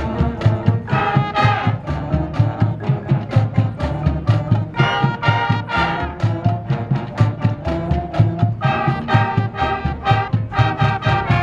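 High school marching band playing: brass section sounding sustained chords over a steady marching drum beat.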